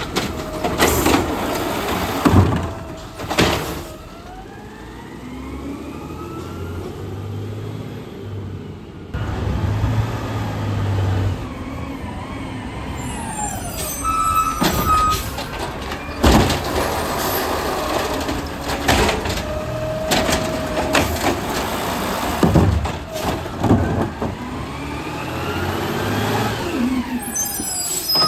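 Garbage truck running, its engine revving up and down, with a string of sharp bangs and clanks.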